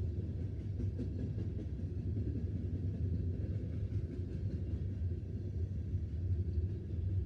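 Loaded coal train rolling past, a steady low rumble.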